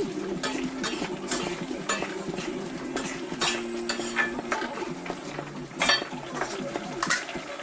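A metal utensil knocking and scraping against a pan while stirring food, in irregular clinks, the loudest about six seconds in.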